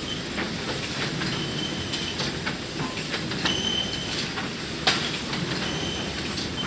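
Sawmill machinery running: a steady rumble with scattered clanks and knocks, a high squeal three times, and one sharp bang about five seconds in.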